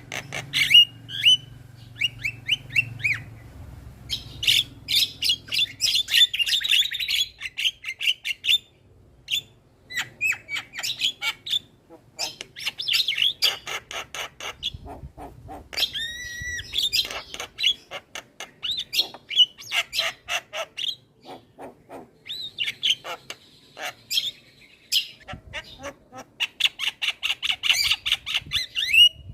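Javan myna chattering and calling vigorously: rapid runs of harsh, clicking notes broken by short pauses, with a drawn-out whistled call about halfway through.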